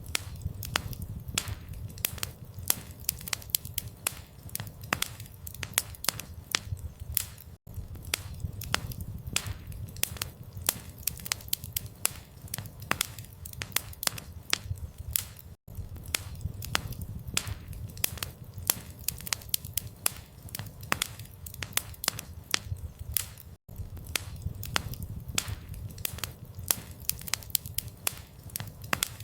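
Campfire crackling: many irregular sharp pops and snaps over a steady low rumble of the flames, with a brief gap about every eight seconds.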